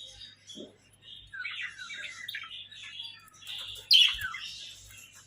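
Pet budgerigars chirping and warbling in quick, chattering notes, with one louder sharp chirp about four seconds in.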